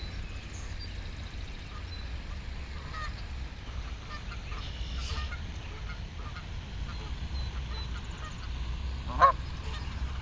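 A goose giving one loud, short honk about nine seconds in, with a few fainter calls earlier, over a steady low rumble of wind on the microphone.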